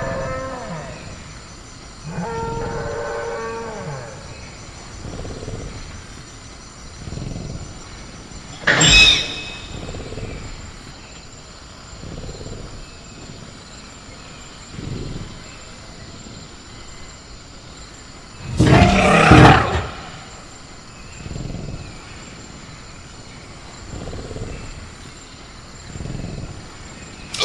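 Sound-effect velociraptor in a cage: low growling breaths every couple of seconds, a pitched call at the start and again a couple of seconds later, a sharp crack about 9 s in, and a loud harsh roar around 19 s. A steady high cricket-like tone runs underneath.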